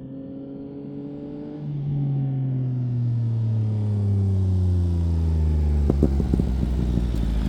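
Yamaha MT-09 three-cylinder engine through a Spark exhaust, its note falling steadily as the throttle is rolled off while the sound grows louder. A few short ticks near the end.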